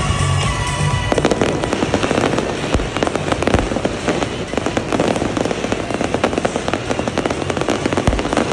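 Big fireworks display: dense, rapid crackling and popping shells bursting without a break. A held tone sounds over the first second.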